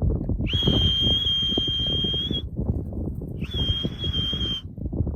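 Two long, steady, high-pitched whistle blasts, the first about two seconds long, the second about a second, used to call young racing pigeons in to the loft trap.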